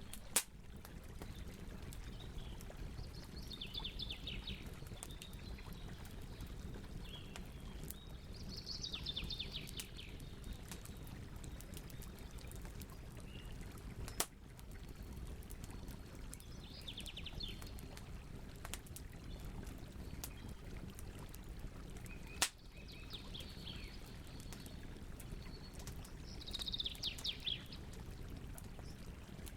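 Campfire burning with a steady low rumble and three sharp pops, one at the start, one about halfway and one two-thirds through. Above it, a bird calls in short, fast trilling phrases about five times.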